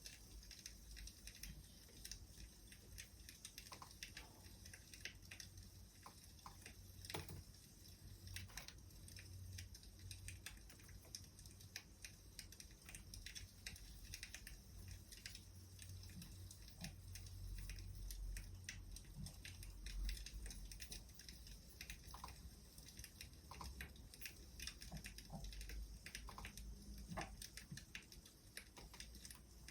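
Faint wood fire crackling: irregular small snaps and pops over a low rumble.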